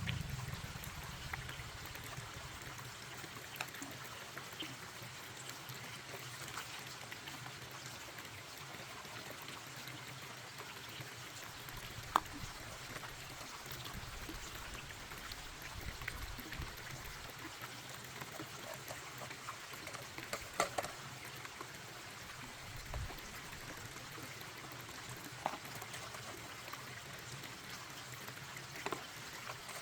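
Steady trickling of water, with scattered light clicks and knocks.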